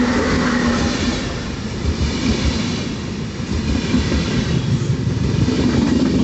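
A train running past on the tracks: a loud, steady rumble of wheels on rail with rapid irregular clatter.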